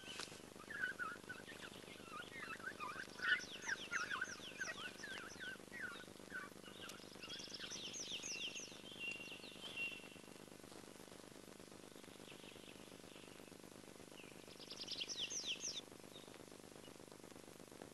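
Faint songbirds chirping, with three bursts of fast, high trills spread over the stretch.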